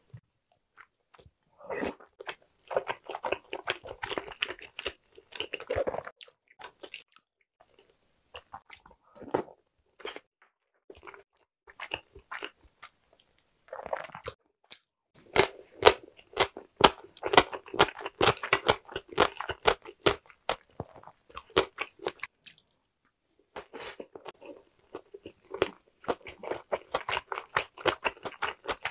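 Close-miked chewing of soft boiled eggs in spicy tteokbokki sauce and crunchy yellow pickled radish (danmuji). The sound is wet mouth sounds with crisp crunching, in three long bursts separated by short quiet pauses.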